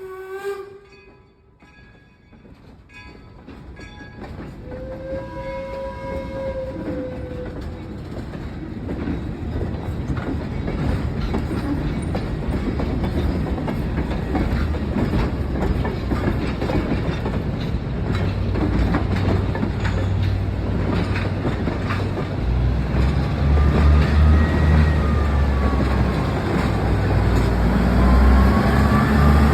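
A passenger train approaching and growing steadily louder: a locomotive whistle sounds one short blast about five seconds in, then the wheels' clickety-clack and running rumble build up. A low, steady engine drone joins and grows stronger in the last third.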